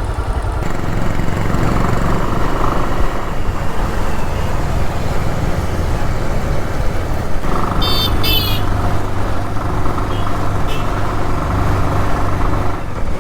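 Single-cylinder Bajaj Pulsar motorcycle engine running steadily while the bike is ridden. A brief high, wavering chirp comes about eight seconds in.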